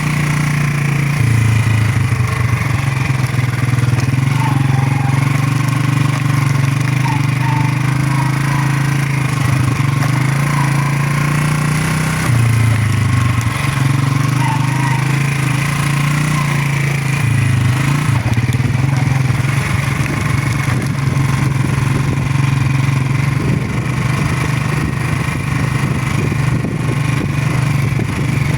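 Motorcycle engine running under way, a steady drone whose pitch steps up and down a few times as the throttle or gear changes.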